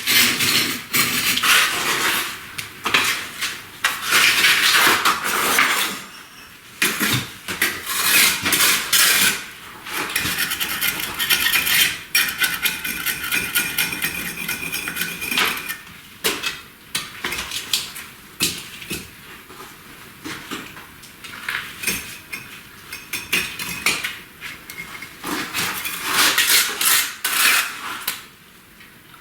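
Bricklaying tools clinking and scraping on brick and mortar in quick, irregular strokes, with a stretch of metallic ringing about a third of the way through.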